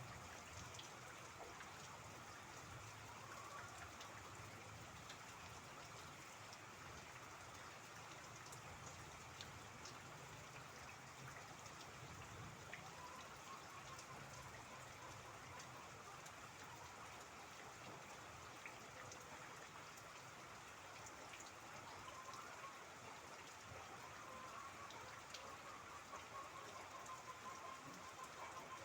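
Rain falling steadily, with scattered single drops ticking on a surface.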